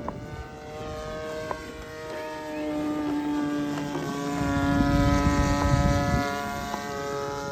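Small 20cc engine of a Seagull Ultimate RC model plane running with its propeller, the pitch shifting a few times with the throttle and getting louder about four to six seconds in.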